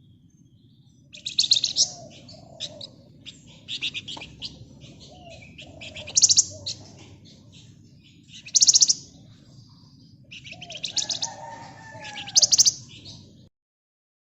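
Flamboyan (wergan Jawa) songbird singing: short bursts of very fast, high, rattling trills repeated every couple of seconds, with softer gliding whistled notes between them, over a steady low hum.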